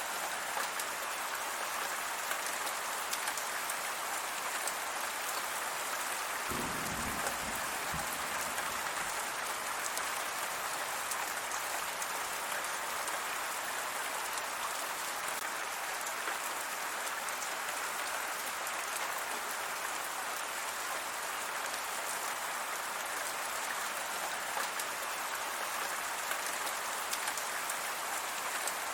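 Steady rain falling: an even, dense hiss of drops. A brief low rumble comes about seven seconds in.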